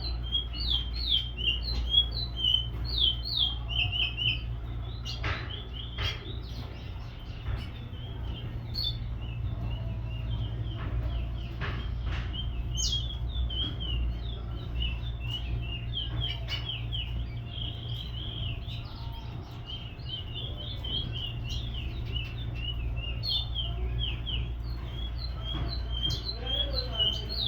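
Small cage birds chirping, many quick high-pitched chirps in busy runs, thinning out in the middle and picking up again near the end, over a steady low hum.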